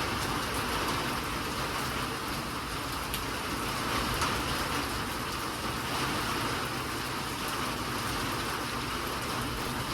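Steady rain falling, an even hiss with a dense patter of drops.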